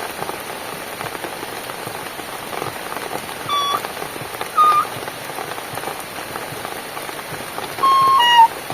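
Steady rainfall, an even hiss of drops, with a few held flute-like notes of a soft melody over it, about three and a half seconds, five seconds and eight seconds in.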